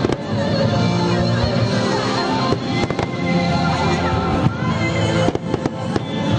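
Fireworks going off over loud music: sharp cracks near the start, about three seconds in and in a quick cluster a little after five seconds, against a steady musical backing.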